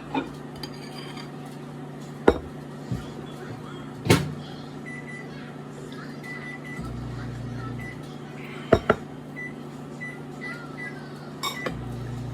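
Sharp clinks and knocks of dishes and utensils at a meal, about half a dozen spread out, over a steady low hum.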